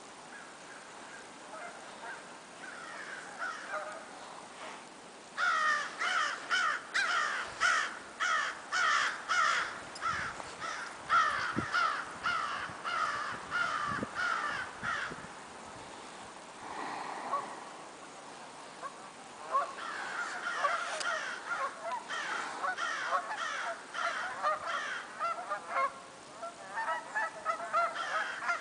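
A flock of birds calling, many short calls overlapping. The calling is densest and loudest from about five to fifteen seconds in, thins out for a few seconds, then builds again.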